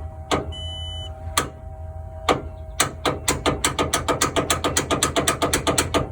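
Ford F-150 starter solenoid clicking without the engine cranking: a few single clicks, then rapid chattering at several clicks a second through the second half. The truck does not start, and the solenoid is taken for faulty. A short electronic beep sounds about half a second in.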